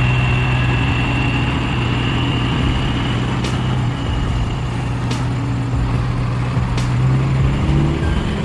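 Heavy truck engine running steadily with a low hum, with a few faint clicks.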